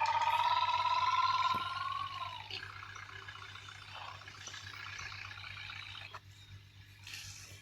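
A vehicle engine revving up, its pitch rising steadily, then falling away about two seconds in. A quieter buzzing engine note follows and cuts off about six seconds in.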